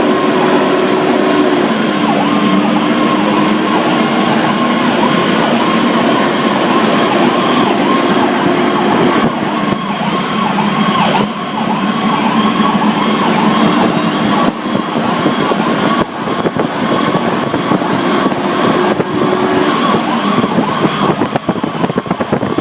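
Fire truck's siren wailing as the truck responds, heard from on board over the truck's engine and road noise.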